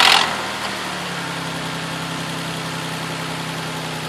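Lexus RX300's V6 just after a cold start: a loud rattle cuts off a moment in, and the engine settles into a steady idle. The owner cannot place the rattle, which comes at every start, and wonders if it is too much oil.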